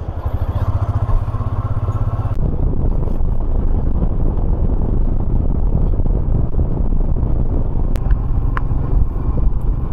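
Royal Enfield Himalayan's single-cylinder engine running steadily as the motorcycle is ridden along the road. Its low pulsing note shifts a little over two seconds in.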